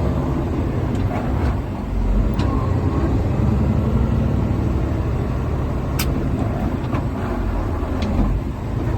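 Truck under way: a steady low rumble of engine and road noise, with a few short sharp clicks, the loudest about six seconds in.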